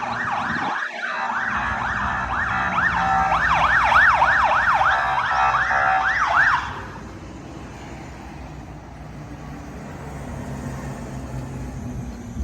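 Fire engine's electronic siren in a fast yelp, about three rising-and-falling sweeps a second, cutting off about six and a half seconds in. After that the truck's engine runs steadily, and a short loud thump comes at the very end.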